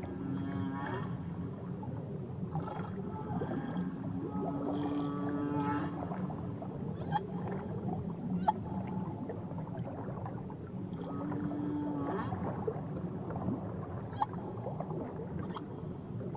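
Whales calling underwater: drawn-out moans and whoops with rising and falling pitch, some held steady for about a second. A handful of sharp clicks are scattered through, over a low steady rumble.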